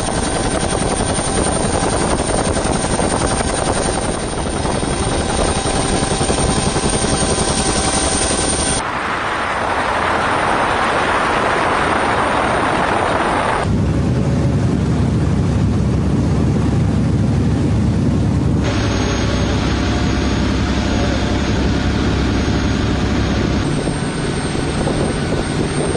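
Loud, steady engine noise from vessels or aircraft during the exercise, its character changing abruptly four times.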